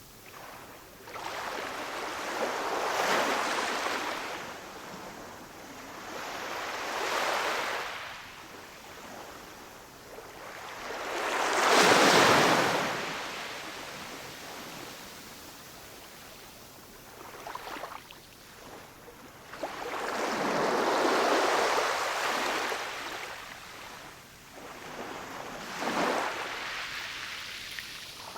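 Ocean waves breaking, the surf swelling and fading in about five surges, the loudest about twelve seconds in.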